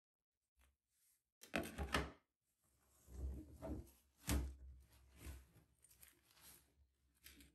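Laundry being stuffed by hand into a front-loading washing machine drum: fabric rustling and brushing in short bursts, with a few dull thumps, the sharpest about four seconds in.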